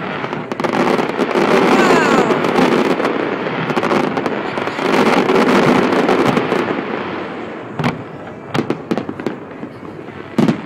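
Fireworks and firecrackers going off: a dense crackle of many rapid bangs for the first six seconds or so, with a brief falling whistle about two seconds in, thinning to a few separate sharp bangs near the end.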